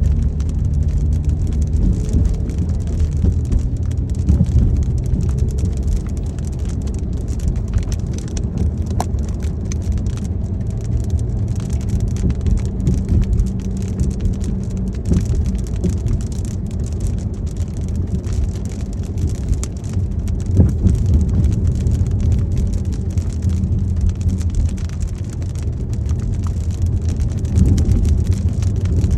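Car driving in light rain: a steady low rumble of road and engine noise, with the patter of raindrops hitting the car.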